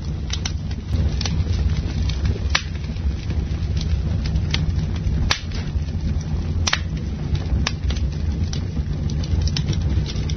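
Campfire crackling: irregular sharp pops and snaps, several loud ones about a second apart, over a steady low rumble.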